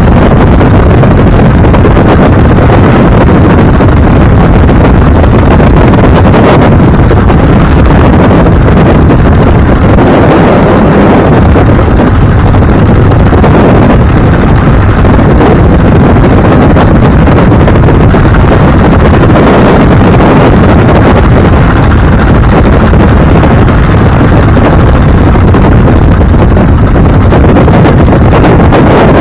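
Loud, steady wind buffeting the microphone over the rumble of a moving vehicle on the road.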